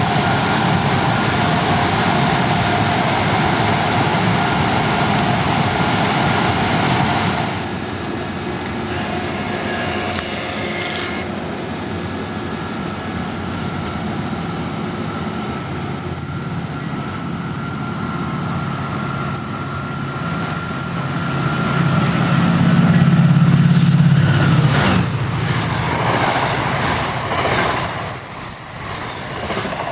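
MARC Penn Line commuter trains running through a station at close range, with a steady rumble of wheels on rail. In the second half a low hum builds and grows louder as a train approaches. Near the end bilevel coaches rush past.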